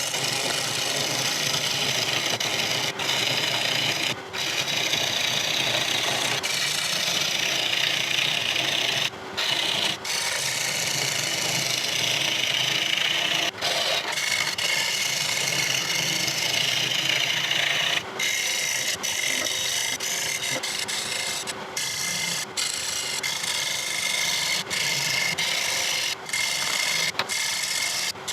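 A turning tool cutting hard rosewood on a spinning lathe: a steady scraping hiss of the cut, broken by many brief gaps as the tool lifts off the wood between passes.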